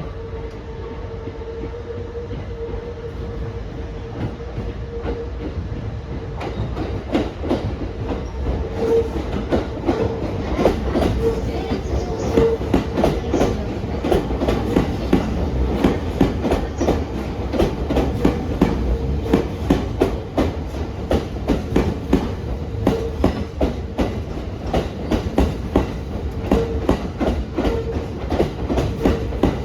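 JR East E231 series 1000 and E233 series 3000 EMU train running into a station over pointwork, its wheels clacking over rail joints and switches in a steady rapid rhythm that starts about six seconds in and grows louder. A steady hum runs underneath.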